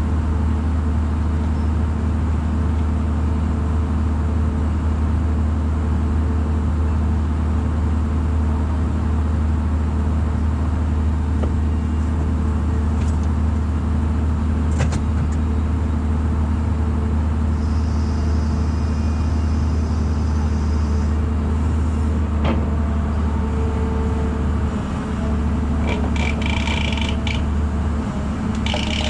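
Diesel engine of a heavy machine running steadily at constant speed, a low drone, with a few faint clicks and knocks over it.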